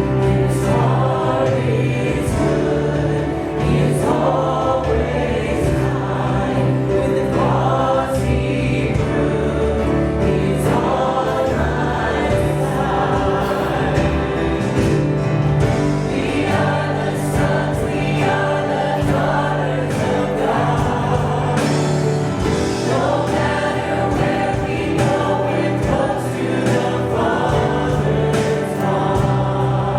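Congregational worship music: a choir singing a gospel-style Christian song over a steady band accompaniment with sustained bass notes.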